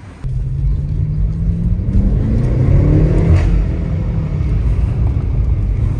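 BMW M8 Competition's twin-turbo V8 heard from inside the cabin, cutting in suddenly and pulling the car along, its pitch rising over the first couple of seconds as it accelerates, then running steadily with a low drone.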